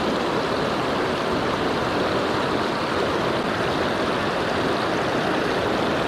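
River water rushing steadily over rocky shoals and rapids.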